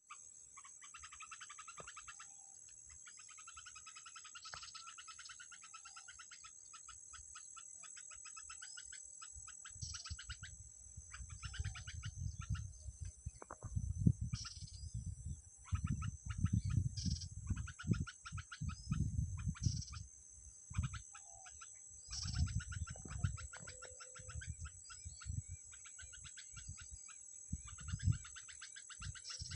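Frogs calling in a dense chorus of rapid pulsed trills, over a steady high-pitched hum. Irregular low rumbles come in from about ten seconds in.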